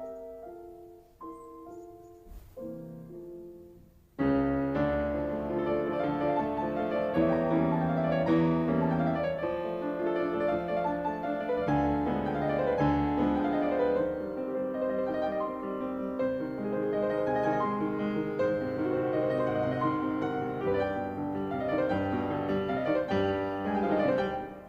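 Background piano music: a few soft single notes, then about four seconds in a louder, fuller passage of many notes that carries on to near the end.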